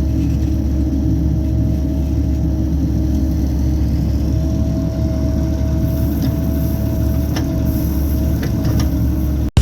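Diesel engine of heavy construction equipment running steadily under a constant load, with a deep rumble and a thin steady whine over it; a few light clicks come in the second half. It cuts off abruptly at the very end.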